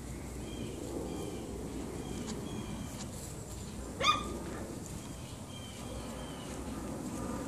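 A puppy gives one short, high-pitched yip about four seconds in, over faint, short high chirps and a steady low background hum.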